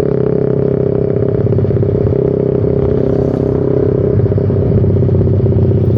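Motorcycle engine heard through a short Pro Liner aftermarket muffler with its dB killer removed, running at fairly steady revs while riding. The exhaust is loud and very noisy.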